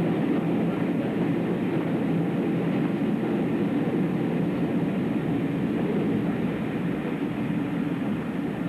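A railway train running, with a steady rumble and rattle and no distinct beat of wheel clicks.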